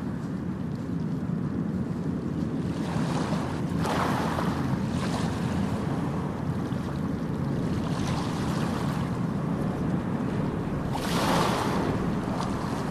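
Ocean waves breaking on a beach, the surf washing in with a louder rush of hiss about four seconds in and again near eleven seconds, over a steady low rumble of wind on the microphone.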